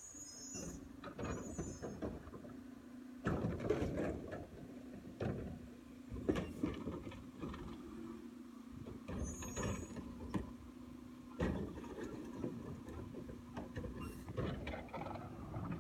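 Garbage truck at work: a steady mechanical hum with repeated clanks and bangs, louder knocks at about 3 and 6 seconds and near 11 seconds.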